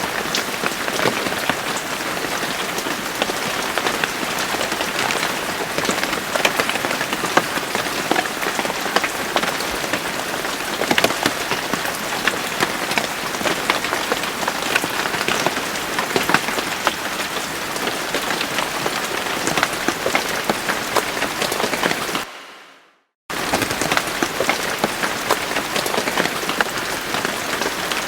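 Steady rain with many separate drop hits clicking on a surface. About twenty-two seconds in, the rain fades out to silence for about a second, then cuts straight back in.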